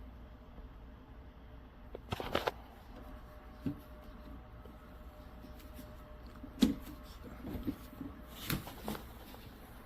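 A few scattered knocks and clicks of things being handled, the loudest about two-thirds of the way in, over a faint steady hum.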